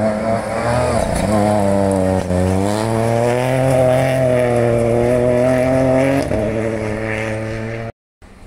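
Rally car engine at full effort on a gravel stage. Its note dips twice as the car slows into the bend, then climbs steadily as it accelerates away, drops back about six seconds in and fades. The sound cuts off abruptly near the end.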